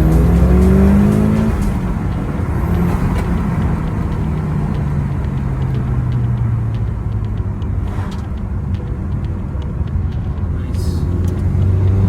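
Mitsubishi Lancer Evolution IX's turbocharged 2.0-litre four-cylinder engine, breathing through an aftermarket rear silencer, pulling hard in second gear. The pitch climbs, drops sharply about a second and a half in, eases down through the middle and rises again near the end.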